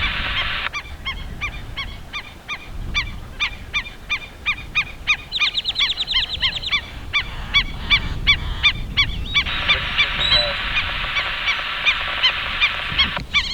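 American avocets calling repeatedly: short, sharp, high calls several times a second, overlapping from more than one bird.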